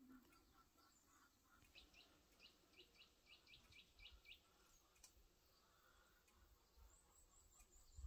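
Faint birdsong: a run of about ten quick chirps, each dropping in pitch, from about two to four seconds in, followed near the end by a thin, high trill.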